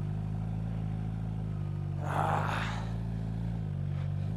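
Kawasaki H2 SX SE's supercharged inline-four running at low, steady revs as the bike rolls slowly over gravel, its pitch dipping briefly near the end as the throttle eases. A short rushing hiss comes about two seconds in.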